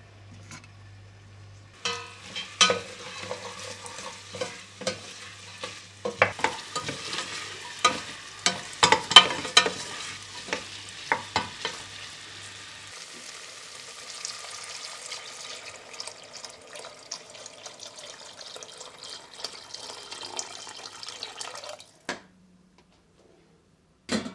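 Cooking in a pan: a utensil stirs and clinks against it over a steady sizzling hiss. It stops suddenly near the end, and one last knock follows.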